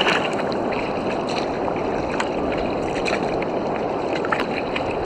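Water splashing and gurgling around a kayak, with short sharp splashes or drips scattered over a steady rushing noise.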